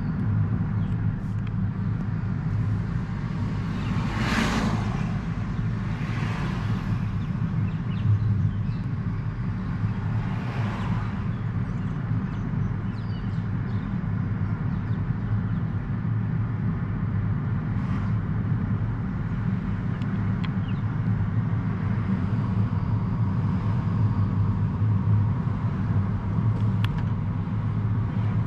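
Car driving along a town street, heard from inside the car: a steady low rumble of engine and road noise. Three brief whooshes of passing vehicles swell and fade about four, six and eleven seconds in.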